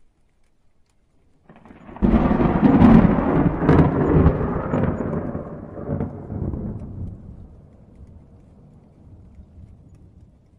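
A thunderclap: a sudden loud crash about two seconds in, with a few sharp cracks, rumbling and dying away over several seconds. Rain falls faintly underneath.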